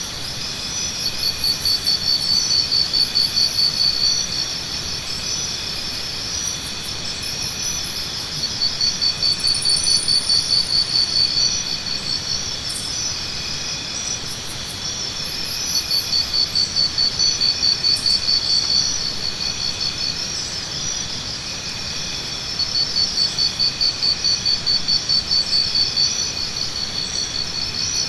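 Tropical jungle ambience: a steady chorus of insects shrilling on several high pitches, with a louder pulsing insect trill of about four pulses a second that swells in for three to four seconds roughly every seven seconds. Faint short high calls sound here and there over a low background hiss.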